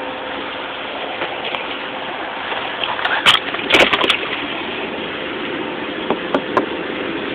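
Ice-coated vehicle door being forced open: a few sharp cracks and knocks about three to four seconds in and two more near six seconds, over a steady hiss.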